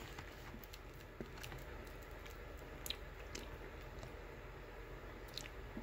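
Faint chewing of candy, with a few soft clicks over a low steady hum.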